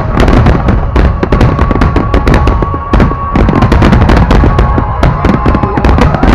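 Dense barrage of fireworks shells bursting, many bangs and crackles a second without a break.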